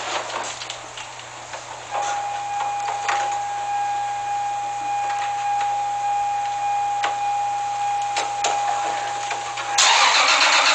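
A steady high-pitched whine for several seconds, then about a second before the end the twin-turbo Toyota Supra's 3.0-litre inline-six fires up on a cold start and runs loudly through its new HKS carbon titanium catback exhaust.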